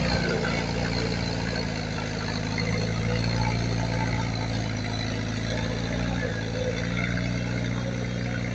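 Heavy earthmoving machine's diesel engine running steadily, with an even low engine note.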